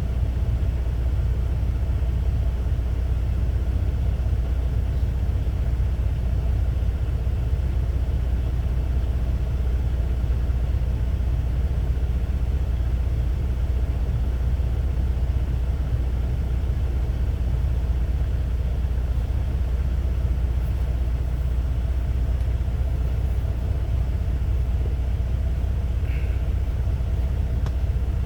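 Low, steady rumble of an idling semi-truck diesel engine, heard from inside the cab.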